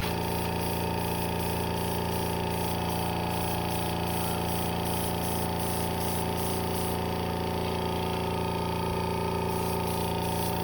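Air compressor running steadily, feeding a paint spray gun: a constant motor hum with an even hiss and no change in speed.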